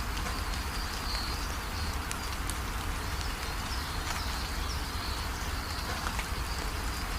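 Steady rain falling, with short high chirps repeating about once a second over the hiss.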